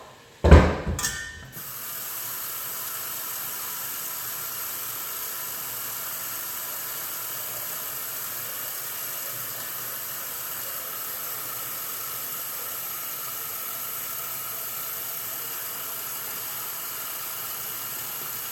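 A metal pot clattering briefly at the start, then a kitchen tap running steadily into the pot to fill it with water, cutting off suddenly at the end.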